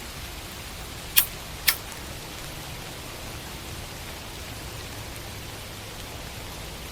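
Steady background hiss with a faint low hum, broken by two short sharp clicks about a second in, half a second apart.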